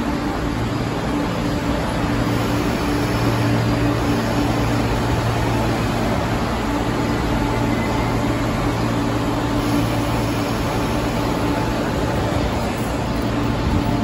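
East Rail Line electric train at a station platform, giving a steady hum and rumble with no clear rise or fall in pitch.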